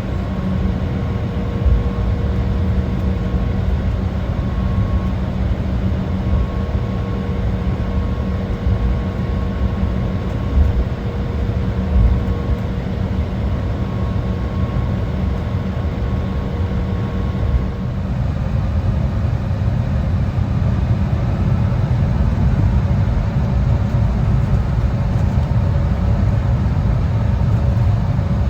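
Cabin sound of an Embraer 175's twin GE CF34 turbofans at taxi: a steady whine over a low rumble, with a few brief thumps. About two-thirds of the way in, the engine tones change and the noise grows steadily louder as the engines spool up for the takeoff roll.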